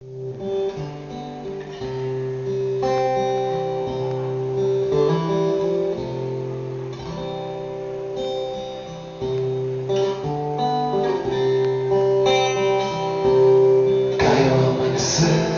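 Acoustic guitar playing an instrumental introduction: ringing chords over a bass line that changes every second or two, with a harder strum near the end.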